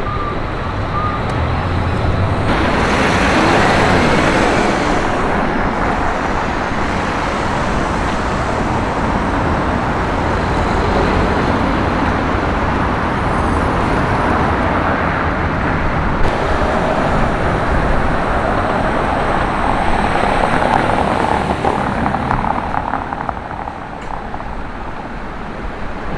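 City street traffic: a steady noise of passing cars, swelling as a vehicle goes by a few seconds in.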